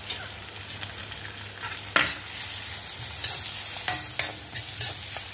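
Chopped onions and cashews sizzling in ghee in a kadai, stirred with a steel spatula that scrapes and clicks against the pan. One sharp knock comes about two seconds in, and a few more near the end.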